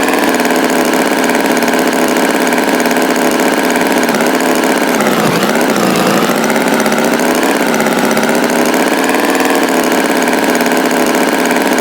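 Tractor engine running steadily, its pitch dipping and rising again about five seconds in.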